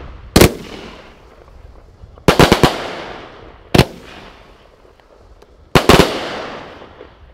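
Pyrocentury Golden Spider firework battery firing shots. The sharp bangs come in clusters: one, then four in quick succession, one more, then two near the end. Each cluster is followed by a fading hiss as the gold stars burn out.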